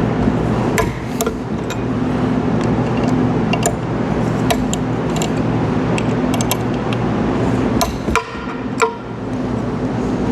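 Scattered metallic clicks and clinks of a number 6 Allen key working the socket cap bolts on the central housing of a MEDUSA 30:1 paint pump's fluid section, over a steady low hum.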